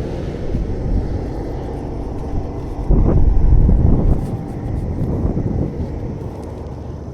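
Interstate traffic going past, a steady low rumble, with one vehicle passing louder for about a second, about three seconds in.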